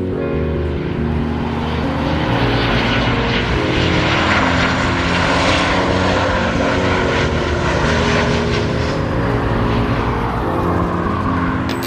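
An airplane passing close by, its engine noise swelling to a peak around the middle and fading toward the end, with a slight falling pitch as it goes by. Background music plays underneath.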